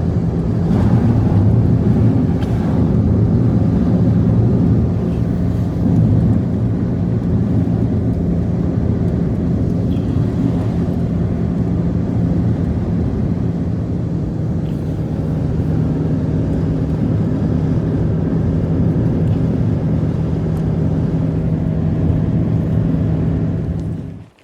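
A motor vehicle's engine running at a steady speed, with a constant low hum over a rumbling noise.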